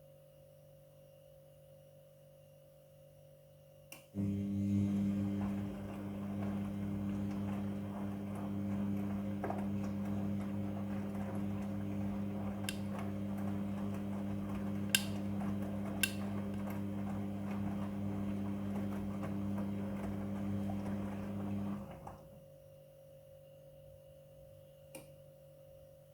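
Midea front-loading washing machine switching on with a click, then a steady electric hum with rushing water for about eighteen seconds, which cuts off abruptly.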